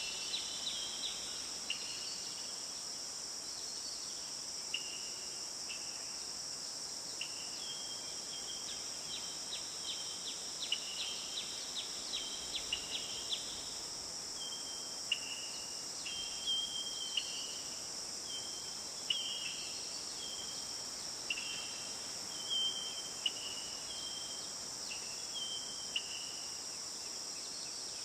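Tropical forest ambience: a steady high-pitched insect drone, with short chirping calls repeating over it, busiest in the first half.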